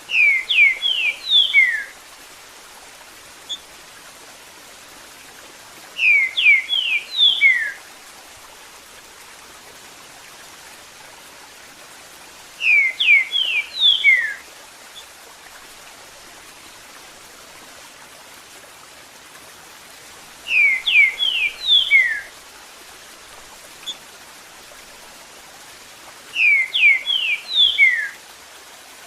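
Green-winged saltator (trinca-ferro) singing its 'eu sou terrível' phrase five times, each a quick run of sharp falling whistled notes lasting about two seconds, repeated roughly every six seconds. Under it runs a steady sound of flowing water.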